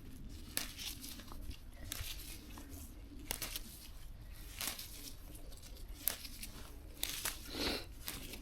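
Leaves and stems of garlic mustard rustling and tearing in short, separate bursts as the plants are picked by hand.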